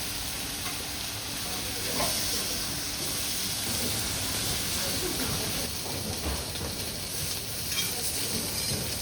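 Food sizzling steadily on a hot cooking station.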